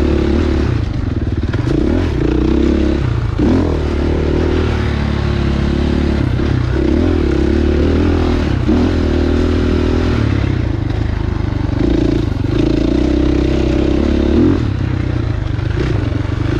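Husqvarna dirt bike engine running under constantly changing throttle on a trail, its pitch stepping up and down every second or two, with some clatter from the bike over rough ground.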